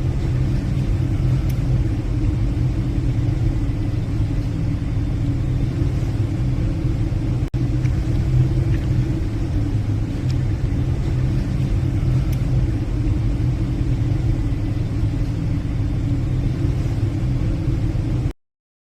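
Steady low rumble of a passenger ship underway, its engines and hull heard from the bridge. There is a momentary break about seven and a half seconds in, and the sound cuts off suddenly just before the end.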